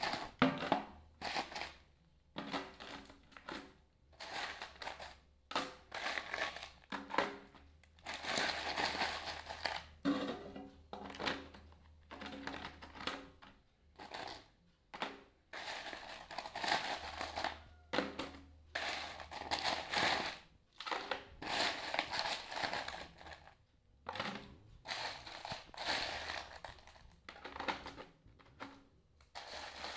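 Ice cubes being handled and added to a bucket packed around a tin can, heard as irregular bursts of clattering and rustling, some brief and some lasting a few seconds, with short pauses between.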